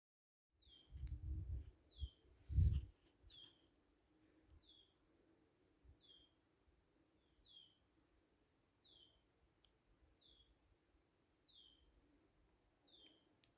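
A bird repeating a two-part call, a short high note followed by a falling slur, about once every second and a half, over a faint outdoor background. A few dull low thumps come in the first few seconds, the loudest near the three-second mark.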